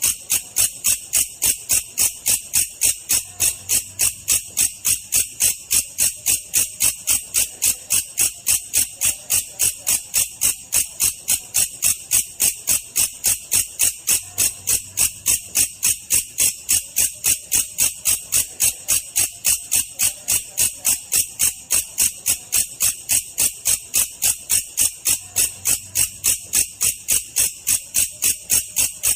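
Belalang kecek grasshopper calling: a steady, even train of sharp, high chirps, about three a second.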